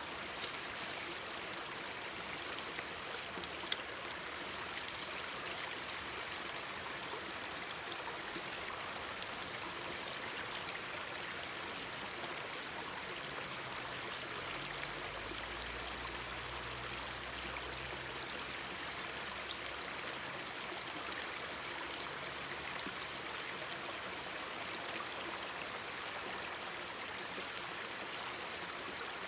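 A mountain stream babbling steadily, with a few sharp pops from a crackling wood campfire, the loudest about four seconds in.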